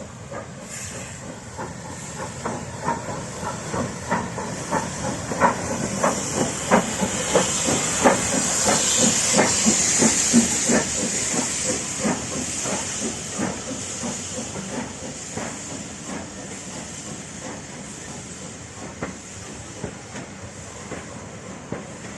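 Steam locomotive passing with loud hissing steam and a regular beat of short knocks. The sound swells to its loudest about halfway through, then fades away.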